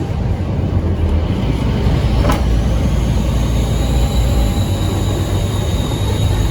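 Scania N230UD OmniCity double-decker bus's five-cylinder diesel engine running under way, a steady low drone with a high turbo whistle that slowly drops in pitch. One sharp knock about two seconds in.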